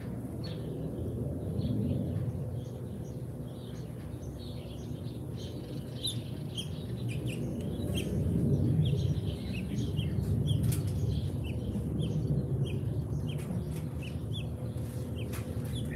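Small birds chirping in many short, quick calls, over a steady low rumble.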